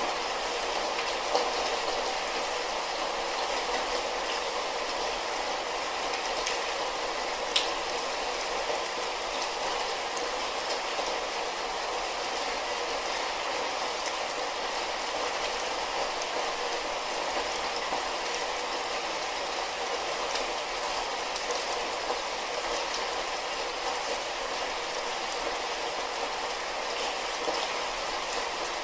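Light rain falling steadily, with a few louder single drop hits, the clearest about seven and a half seconds in.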